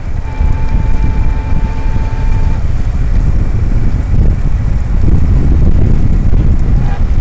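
Wind buffeting the microphone during an e-bike ride, a dense low rumble. A steady whistling tone sounds for about two seconds near the start, then stops.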